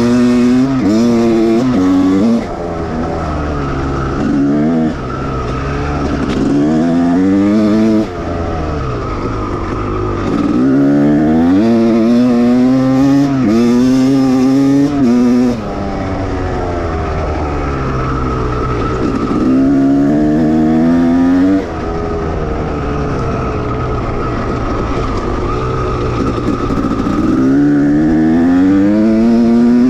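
1989 Honda CR250R single-cylinder two-stroke motocross engine being ridden hard. It accelerates several times, the pitch climbing in steps and then falling away sharply as the throttle is shut.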